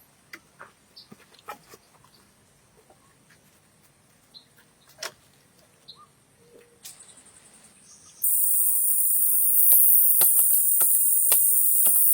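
Scattered small clicks and faint short chirps. About eight seconds in, a loud, steady, very high-pitched insect chorus starts abruptly, with clicks continuing over it.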